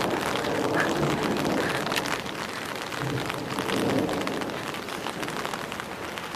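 Rain falling steadily outdoors, a constant hiss dotted with many small drop impacts.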